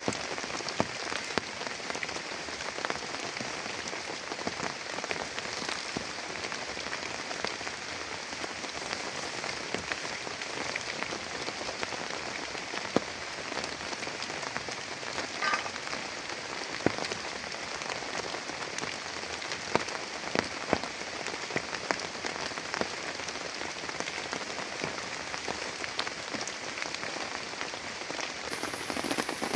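Heavy rain falling steadily, a dense hiss with scattered sharp taps of large drops hitting a surface close by.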